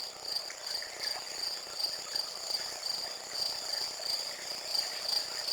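Crickets chirping: a steady, high-pitched pulsing trill that repeats a few times a second.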